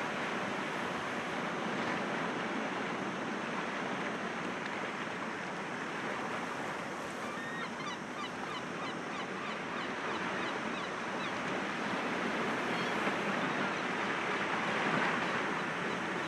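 Sea waves breaking gently against rocks: a steady wash of surf that swells a little near the end.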